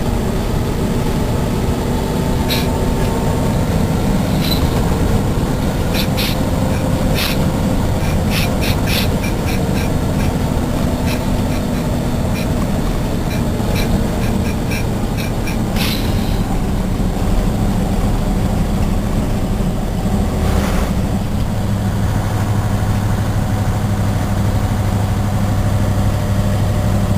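Cement tanker truck's engine running steadily, heard from inside the cab, with irregular clicks and rattles for the first half as it drives on a rough dirt road. The engine note changes about 20 seconds in.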